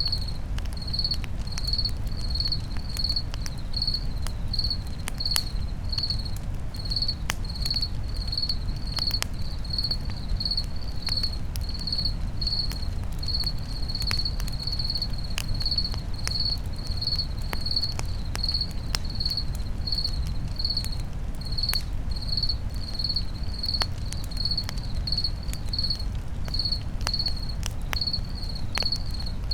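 Crickets chirping in a steady high pulse, about two chirps a second, over a campfire crackling with scattered sharp pops and a steady low noise.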